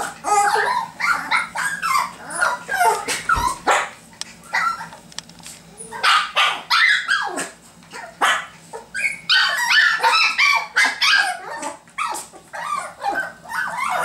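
Biewer Yorkshire terrier puppies yapping and whining: many short, high-pitched yips in quick runs with brief pauses between them.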